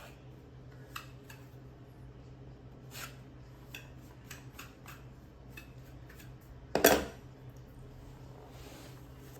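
Hand tools being handled during caulking and patching: light scattered clicks and knocks, with one loud clatter about seven seconds in, over a steady low hum.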